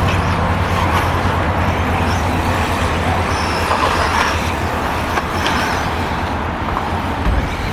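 Electric 1/10-scale RC buggies racing on a dirt track: a steady wash of noise from motors and tyres, with brief faint whines as cars pass, over a constant low hum.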